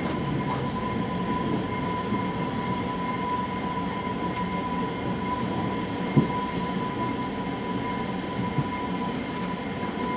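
West Coast Express commuter train rumbling, with a steady high whine held throughout and a single sharp knock about six seconds in.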